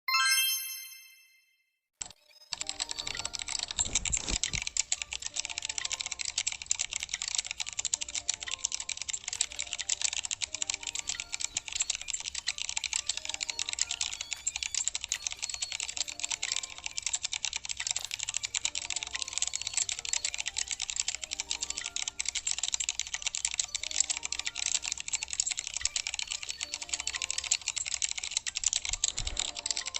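A single chime rings and fades, then a rapid, continuous run of keyboard typing clicks starts about two and a half seconds in and keeps going.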